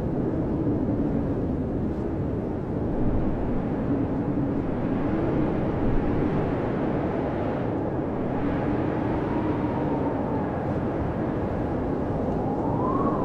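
Blizzard wind blowing steadily: a low, rushing roar with faint howling whistles that waver up and down in pitch, one swelling higher and falling away near the end.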